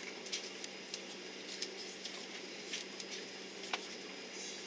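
Airliner cabin ambience: a steady hum with light clicks and ticks scattered through it, and a short hiss near the end.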